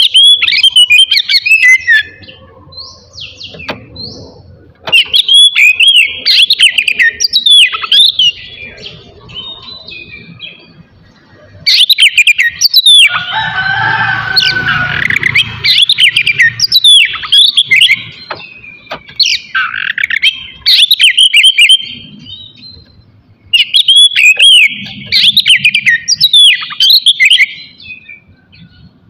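Oriental magpie-robin (kacer) singing loud, rapid runs of varied whistled notes that slide sharply up and down, in bursts of a few seconds with short pauses between them; the song is densest in the middle.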